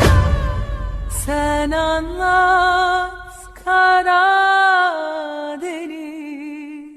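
The backing music of a sad Turkish song dies away. A lone voice then sings wordless long notes with vibrato, in three held phrases that fade near the end.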